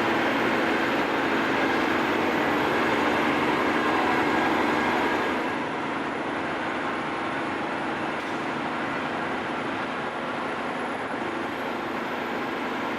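Logging truck driving, its engine and road noise a steady drone heard from inside the cab; it drops a little in level about five seconds in.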